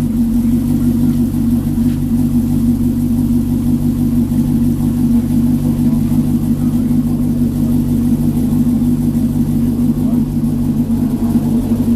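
Truck engine running at a steady speed, a constant low hum that does not rise or fall.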